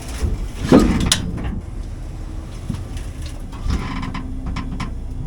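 Truck engine running steadily, with several metallic clunks and knocks over it, the loudest about a second in.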